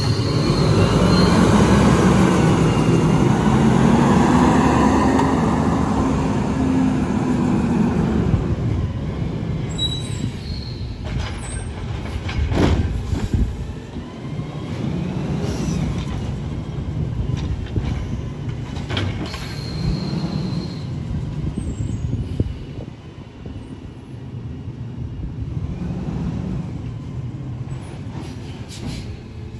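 McNeilus AutoReach automated side-loader garbage truck at work: its diesel engine revs up and then settles over the first several seconds as the hydraulics run. Brief high squeals and several sharp clanks follow, over the engine's steady low running.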